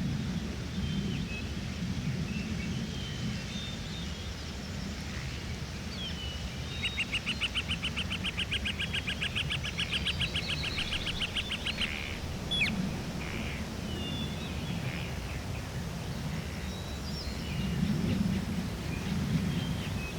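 Forest birds calling: scattered short chirps, and in the middle one bird gives a fast, even trill lasting about five seconds. A low steady background noise runs underneath.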